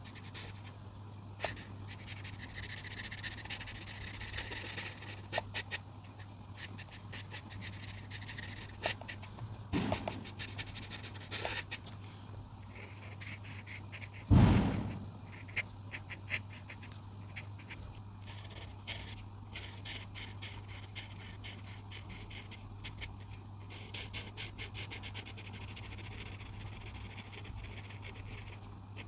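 Coloring strokes on paper: a coloring tool scratching in quick back-and-forth runs, with a single dull thud about halfway through and a steady low hum underneath.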